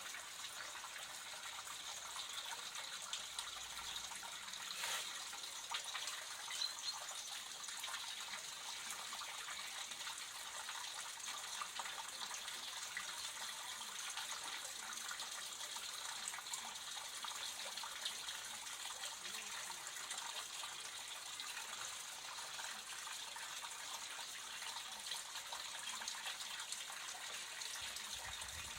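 Water running steadily in a small artificial stream, an even, unbroken rush of flowing water.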